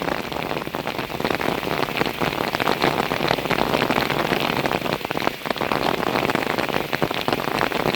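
Heavy rain pouring down, a dense, steady patter of drops on surfaces.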